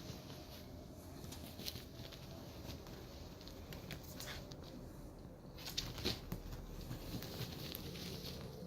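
Irregular light clicks and taps over a low steady background, with a few louder taps about six seconds in.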